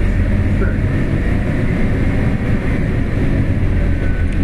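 Scania CN280UB CNG city bus running, heard from inside the cabin. Its 9-litre five-cylinder gas engine gives a steady low drone.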